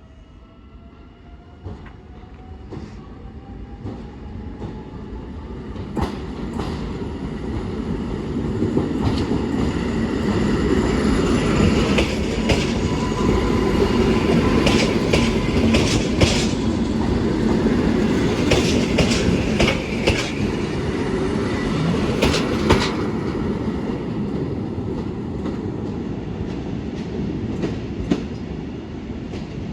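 Train approaching and passing, its wheels clicking over rail joints; the rumble swells for about twelve seconds, stays loud through the middle, then slowly fades.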